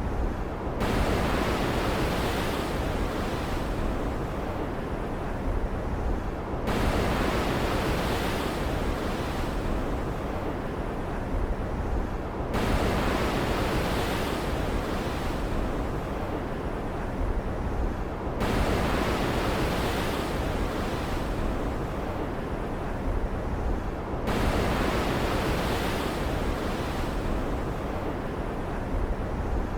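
Storm-at-sea ambience: a steady rush of ocean waves and rain, swelling and brightening abruptly about every six seconds.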